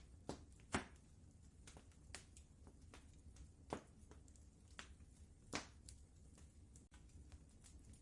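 Wood fire crackling: irregular sharp snaps and pops over a faint low rumble.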